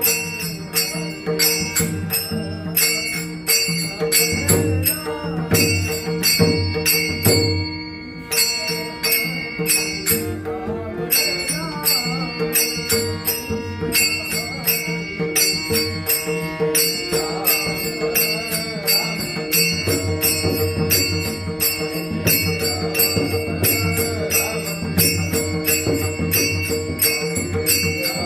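Varkari devotional bhajan music: small hand cymbals clashing in a fast, steady rhythm over a drum and a held drone, with a voice singing a bending melody line.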